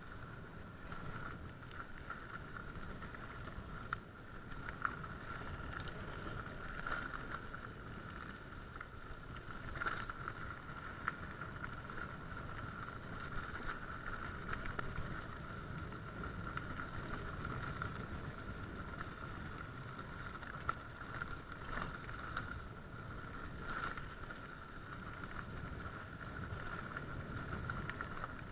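A vehicle in motion: a steady low rumble with a constant high whine over it, and scattered knocks and rattles.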